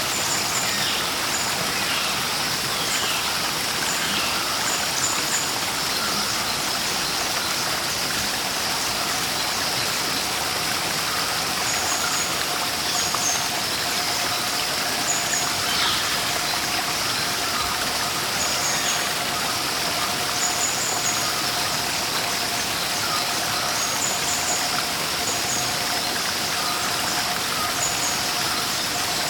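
Steady running water of a stream or waterfall, with small birds giving short high chirps every second or two.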